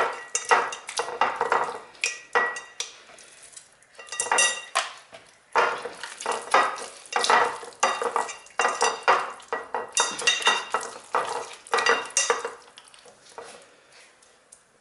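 A dish clinking and scraping while marinade is worked over raw partridges: repeated rattling clinks with a short ring, in bouts, easing off near the end.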